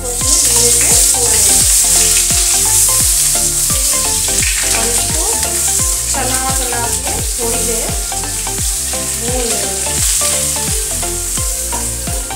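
Boiled jackfruit pieces dropped into hot oil in a steel kadhai, sizzling loudly the moment they hit the oil, while a slotted spoon stirs them. Background music with a steady beat plays underneath.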